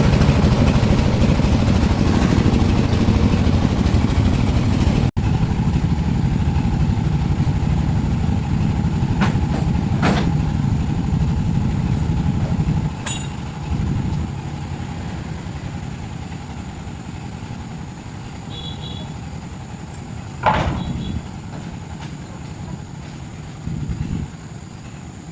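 A vehicle engine running with a steady low rumble that slowly grows fainter, broken by a few short knocks, the loudest about twenty seconds in.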